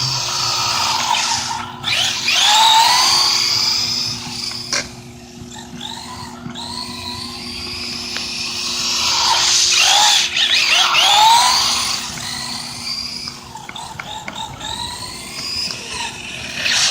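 Brushed electric motor and drivetrain of a Valuehobby Wildcat short-course RC truck on a 2S battery whining, rising and falling in pitch again and again as it speeds up and slows down. It is loudest about two to four seconds in and again about nine to twelve seconds in.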